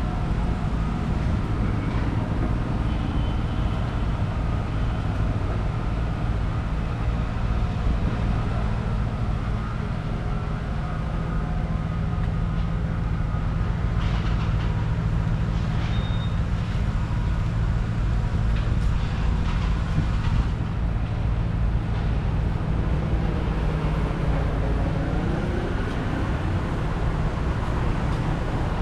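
Steady low vehicle rumble with a constant engine hum.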